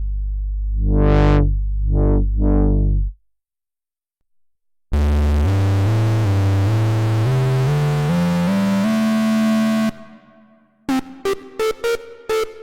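Waldorf Pulse 2 monophonic analog synthesizer playing preset sounds. First come deep bass notes whose filter sweeps open bright and close again on each note. After a pause, a buzzing tone climbs upward note by note. Near the end, short staccato notes repeat in a quick rhythm.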